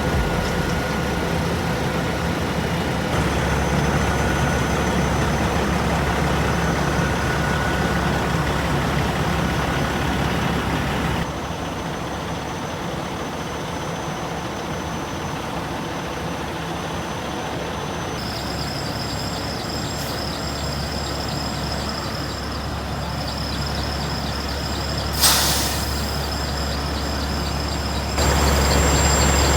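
Heavy truck engines idling with a steady low rumble that shifts abruptly a few times. A faint high whine joins about 18 seconds in, and a short sharp air-brake hiss comes about 25 seconds in.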